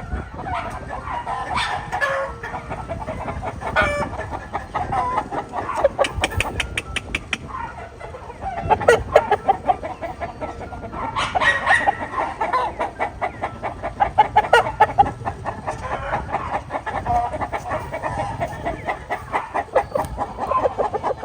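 Game-fowl chickens clucking over and over, with several quick runs of rapid clucks.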